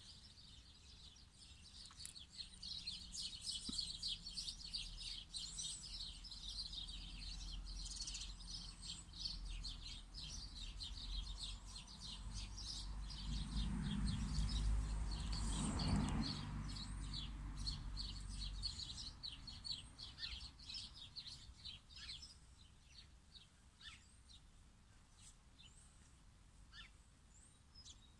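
Small birds chirping and twittering in quick, dense runs, thinning out towards the end. Under them a low rumble swells to its loudest about halfway through and dies away soon after.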